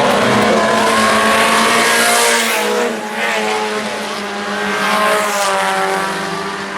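A pack of IMCA Sport Compact race cars running at racing speed, their four-cylinder engines overlapping, with several engine notes rising and falling as the cars pass. The sound is loudest in the first couple of seconds, eases about three seconds in, then swells again.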